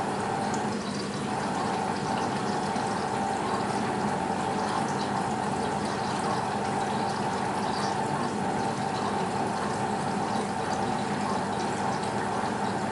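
BEKO WMB 51441 front-loading washing machine with water running steadily through it, over a constant hum, late in a short wash program with an extra rinse.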